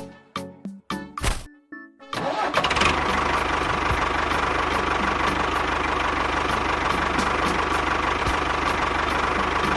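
Light music with short plopping notes, then about two seconds in an engine starts and runs steadily.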